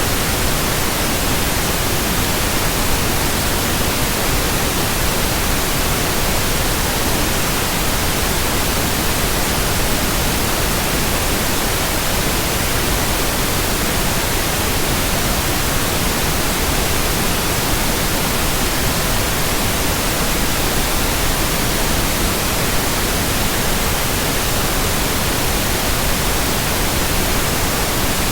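Steady white noise: an even hiss spread evenly from low to high pitches, with no rhythm, pulses or changes.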